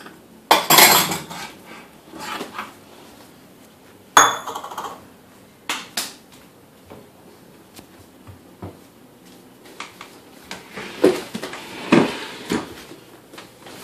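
Bowls and dishes clattering and knocking together as they are pulled out of a low kitchen cabinet. There is a loud clatter about half a second in, a sharp knock around four seconds in, then scattered clinks and a couple of ringing knocks near the end.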